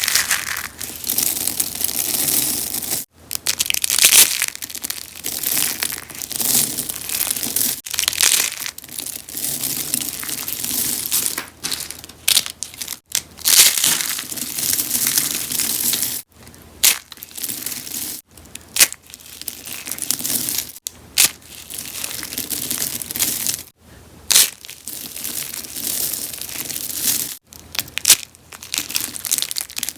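Rose-shaped soaps being crunched and crushed: continuous crisp crackling and crumbling, broken by brief sudden gaps every few seconds.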